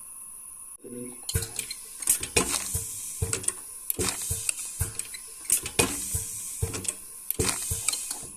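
Irregular clinking and knocking of small hard objects being handled, starting about a second in and running until just before the end.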